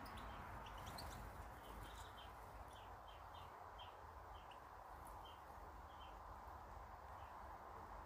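Faint, short bird chirps, several a second for the first few seconds and then thinning out, over a steady faint background hiss.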